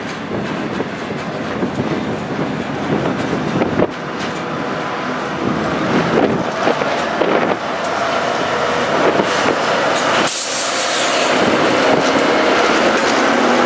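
Steady rumbling and clattering of a vehicle in motion, growing slowly louder. A sharp hiss starts about ten seconds in.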